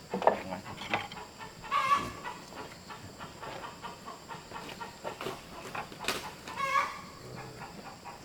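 Chickens clucking, with two short calls, one about two seconds in and one near seven seconds, among scattered knocks.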